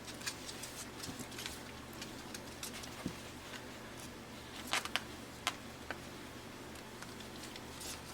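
Five-week-old Pembroke Welsh Corgi puppies moving about, making scattered light clicks and scuffs, with a few sharper clicks about five seconds in.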